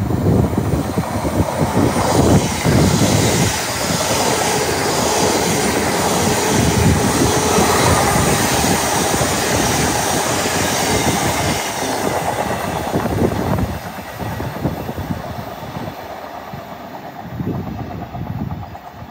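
A train passing through the station, loud for about thirteen seconds and then fading away, with gusts of wind buffeting the microphone.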